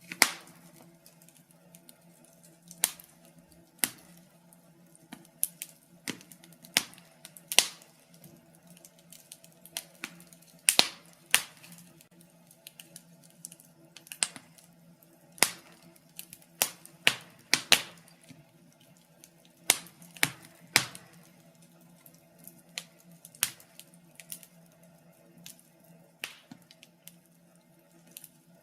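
Wood fire crackling in a fireplace: irregular sharp pops and snaps, some loud, others faint, over a faint steady hum.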